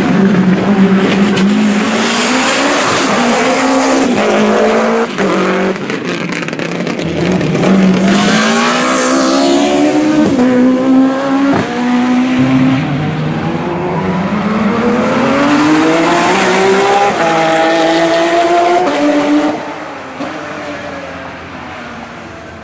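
Slalom race car at full throttle, its engine revving up and dropping back again and again through quick gear changes and lifts. Near the end it fades away as the car moves off.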